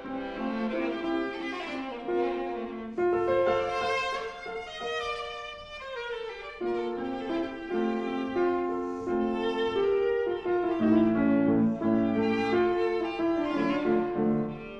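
Viola playing sustained bowed notes over piano accompaniment, with a downward slide about five seconds in.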